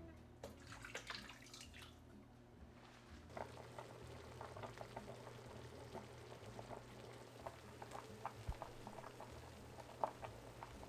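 A short hissy rush of liquid near the start, then a pot of beef short-rib soup (galbitang) bubbling at a boil, with small irregular pops.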